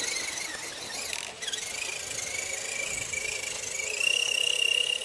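Electric motor and gear train of an RC rock crawler whining under throttle. The high whine holds steady, then rises in pitch and gets louder about four seconds in as the motor speeds up.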